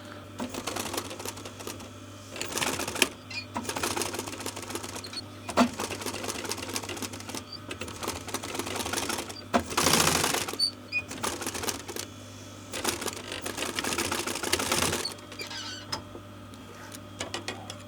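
Sewing machine fitted with a zipper foot stitching upholstery in several runs of a few seconds each, with short pauses between them.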